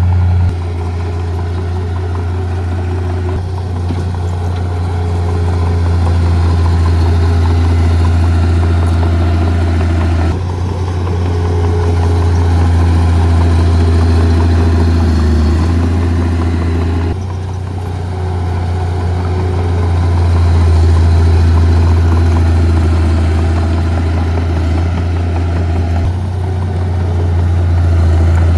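Diesel engine of heavy earthmoving equipment running with a deep, steady hum, swelling and easing as its load changes. The sound shifts abruptly a few times, about 10 and 17 seconds in.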